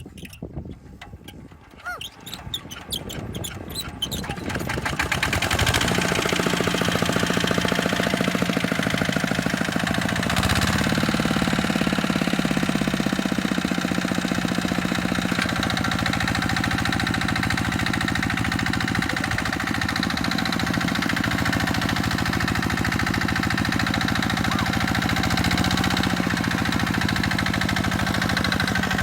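Tractor diesel engine coming in over the first few seconds, after a few light clicks, then running steadily at an even speed.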